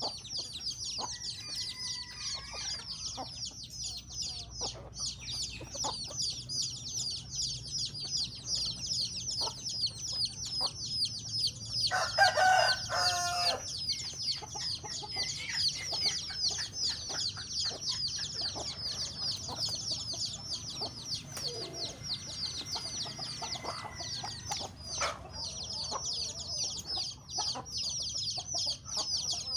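Chickens calling and clucking, over a dense, continuous chorus of short high chirps. One louder, longer call stands out about twelve seconds in.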